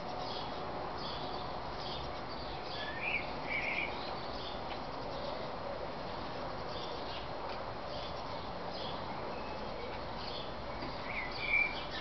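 Great tits chirping: short high calls, a clearer pair about three seconds in and another near the end, with fainter calls scattered throughout over a steady background hiss.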